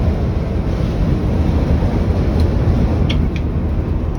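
Scania 113's diesel engine running under way, with a steady low rumble and road noise heard from inside the cab, and a couple of faint clicks about three seconds in.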